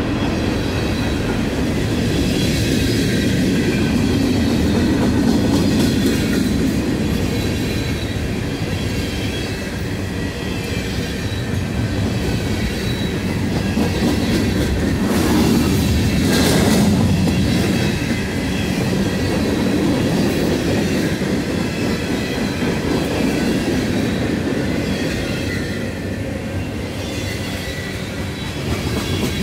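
Freight cars of a manifest train rolling past close by: a steady loud rumble and clatter of steel wheels on rail, with faint high squealing from the wheels.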